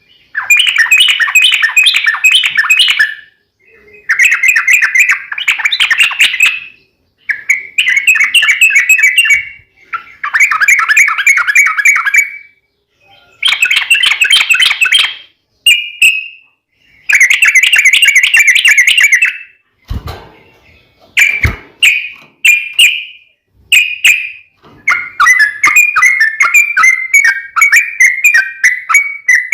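Yellow-vented bulbul singing: loud, bubbly phrases of rapid notes, each two to three seconds long, with short pauses between them. Near the end comes a longer, faster run of chattering notes. Two brief low knocks fall about two-thirds of the way in.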